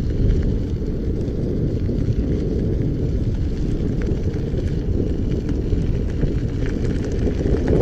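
Steady low rush of wind buffeting the microphone while riding an electric unicycle, with a few faint clicks.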